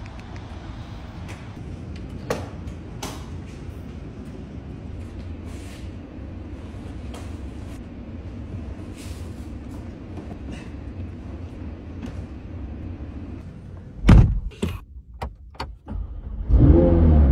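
A loud thump about fourteen seconds in, over a steady low hum. Near the end the McLaren 720S's twin-turbo V8 is push-button started: it catches with a quick rising rev and settles into a loud steady run.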